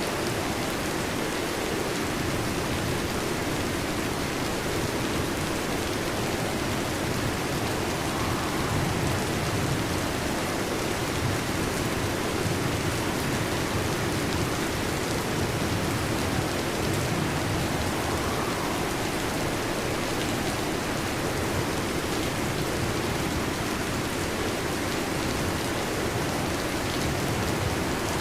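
Steady heavy rain falling, an even hiss with no thunder rumble standing out.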